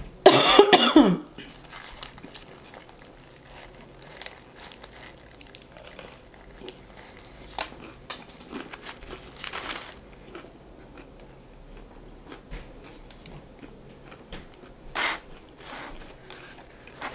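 A loud crunchy bite into a crispy fried chicken sandwich in the first second, followed by close-up chewing with small irregular mouth clicks. Brief rustles of paper wrapper come now and then, the clearest near the end.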